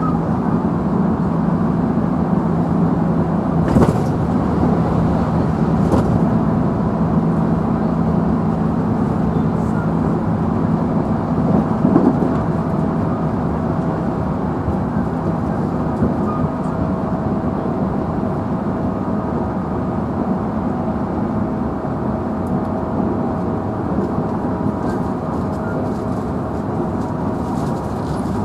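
JR Central 311-series electric multiple unit heard from inside a motor car while running along the line: a steady rumble of wheels on rail with a held motor and gear hum. A few sharp knocks from rail joints come through, the clearest about four, six and twelve seconds in.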